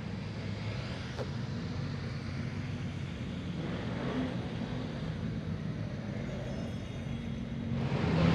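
A car engine running steadily at low revs, with a low hum. It grows much louder shortly before the end.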